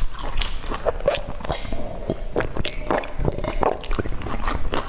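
A person chewing a mouthful of braised pork close to the microphone, with irregular mouth clicks and smacks.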